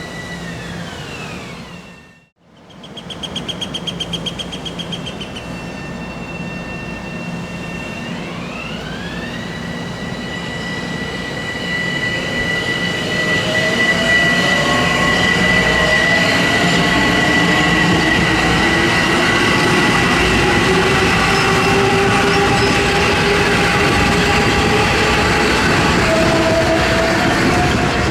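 Metro-North Bombardier M7 electric multiple-unit train: a whine falls in pitch as it slows. After a cut, its electric propulsion whine rises in pitch and settles into a steady tone, while a lower hum climbs slowly and the train grows louder as it gathers speed.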